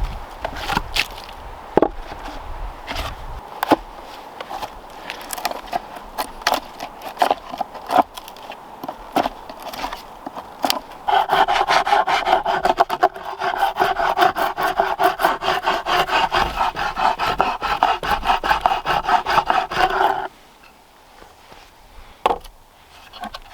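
Wood being worked by hand: scattered knocks and scraping strokes at first, then from about eleven seconds in a hand saw cutting through wood in quick, even strokes for about nine seconds, stopping abruptly.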